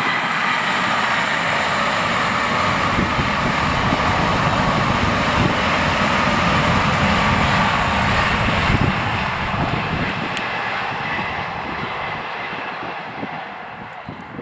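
A GWR Intercity Express Train passing at speed: a steady rushing rumble with a whine in it. It is loudest around the middle and fades away over the last few seconds, with wind buffeting the microphone.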